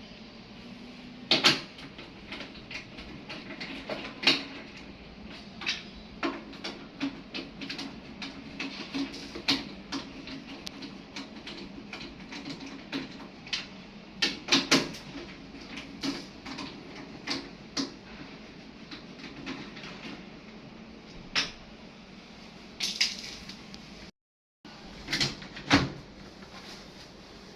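Irregular knocks, clicks and clatter of metal and plastic parts being handled while a front-loading washing machine is worked on, over a steady low hum.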